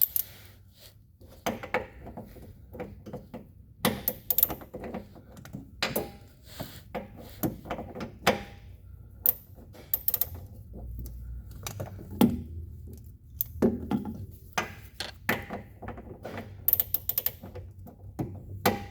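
Irregular clicks and knocks of hand tools being handled and worked on the front differential of a Kawasaki Teryx4 side-by-side, a few sharp strikes a second at most.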